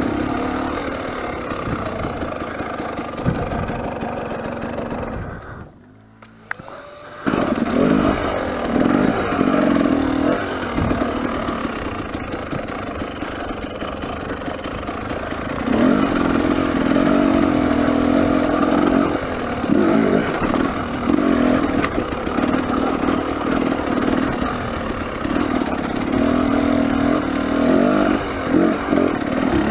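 300cc two-stroke enduro dirt bike engine running and revving up and down over rocky ground, with clatter from the bike. The engine sound drops away for about a second and a half, roughly six seconds in, then comes back suddenly.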